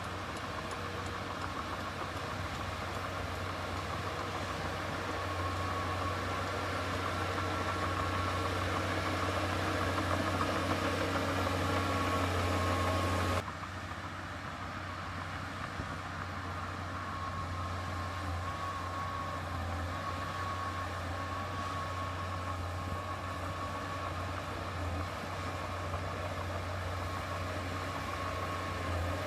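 Diesel engine of heavy earthmoving machinery running steadily, with a thin whine over the low hum. The sound grows louder over the first twelve seconds, then drops abruptly about 13 seconds in, where the recording cuts, and the engine runs on.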